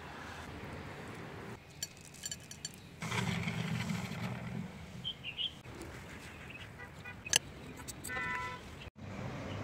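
Outdoor ambience: a steady low rumble like distant traffic, with a few short bird chirps and scattered clicks. The background changes abruptly several times.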